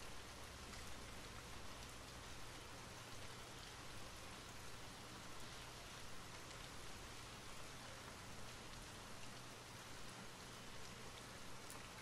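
Rain falling steadily: a quiet, even patter of drops.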